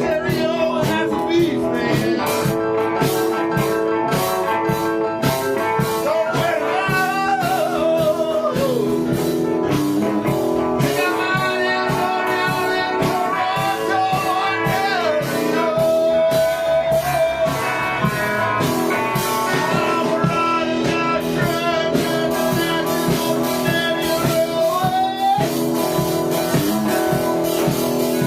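Blues band playing with guitar and drum kit, a lead line bending up and down in pitch over a steady accompaniment.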